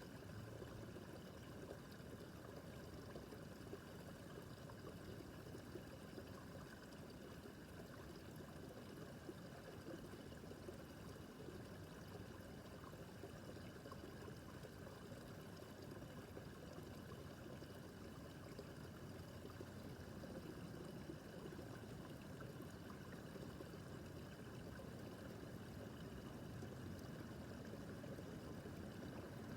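A babbling brook: shallow water running steadily over stones, a soft, even trickling and gurgling.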